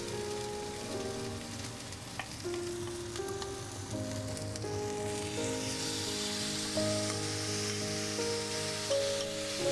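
Food sizzling in a frying pan under background music with a slow melody of held notes. The sizzle grows louder about halfway through.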